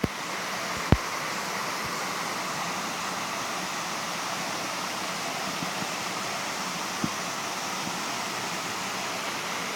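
Mountain stream water rushing steadily over rocks. There is a sharp click about a second in and a fainter one about seven seconds in.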